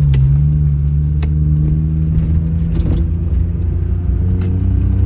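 Suzuki Alto Works' small turbocharged three-cylinder engine running under way, a steady engine note whose pitch rises and falls slightly, sounding normal for the moment on a car that has been misfiring badly.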